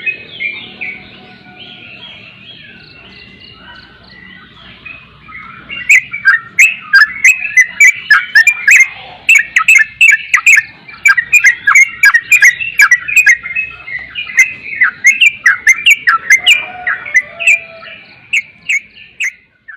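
Yellow-vented bulbul (trucukan) chirping in a long run of short, sharp, rapid notes. It is softer for the first few seconds, then loud and dense from about six seconds in, tailing off near the end.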